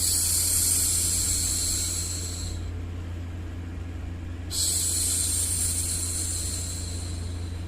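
A woman's long hushing 'shhh', made twice with a pause between, over a steady low hum. The first shush fades out gradually.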